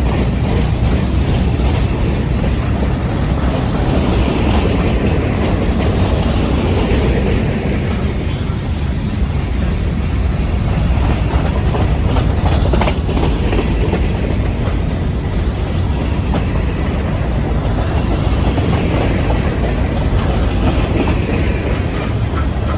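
Freight train rolling past at steady speed, its wheels rumbling and clacking over the rail joints.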